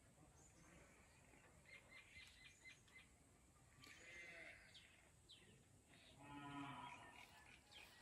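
Near silence: faint open-air ambience with distant birds chirping, and a faint longer call about six seconds in.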